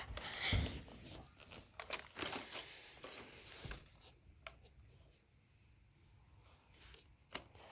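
Faint handling noise: scattered rustling and light clicks over the first few seconds, then quiet room tone broken by a couple of isolated clicks.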